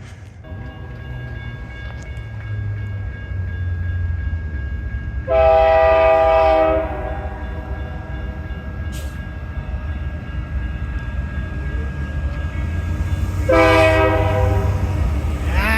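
A GE diesel freight locomotive rumbling as it approaches, growing louder, and sounding its air horn twice: a blast of about a second and a half about five seconds in, then a longer blast near the end.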